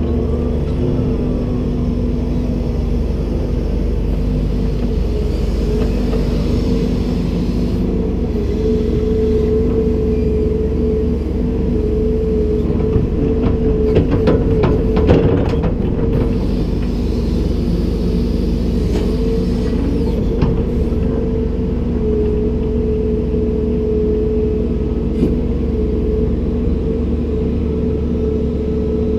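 Komatsu PC290-10 hydraulic excavator running steadily, its diesel engine and hydraulic pump holding a constant tone over a low rumble. A brief clatter of knocks comes about halfway through.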